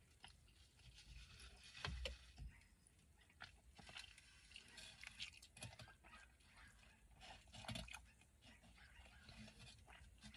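Faint close-up chewing of a burrito, with small wet mouth clicks and a few soft low knocks, the loudest about two seconds in and again near eight seconds.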